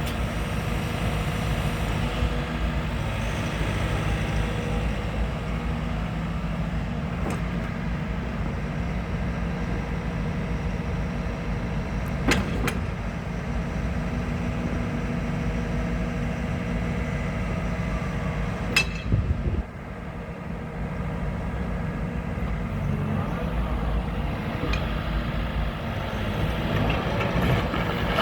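Develon DX85R-7 excavator's diesel engine running steadily, with a couple of sharp clicks about twelve and nineteen seconds in and a brief drop in level just after the second.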